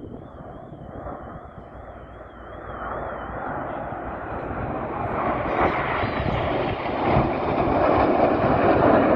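Jet noise from the Red Arrows' BAE Hawk T1 formation, building steadily louder from about three seconds in as the jets approach, and loudest near the end.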